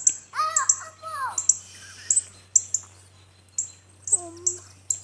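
Small songbirds chirping: a rapid series of short, sharp, high-pitched chirps, several a second and coming irregularly, with a brief soft child's voice near the start and again near the end.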